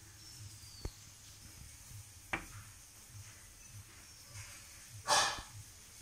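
Birds calling: a faint high whistle sliding down in pitch near the start, then a short harsh, rasping call about five seconds in.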